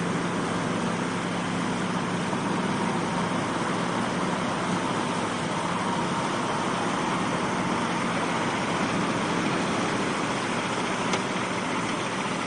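A vehicle engine running steadily under a loud, even rushing noise. A low engine hum fades out about four seconds in, and there is a single sharp click near the end.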